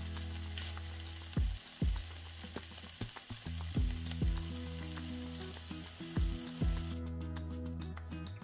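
Smoked sausage, onion and bell pepper sizzling in a nonstick skillet, stirred with a spatula, over background music with a deep beat that hits in pairs. The sizzle cuts off about seven seconds in, leaving only the music.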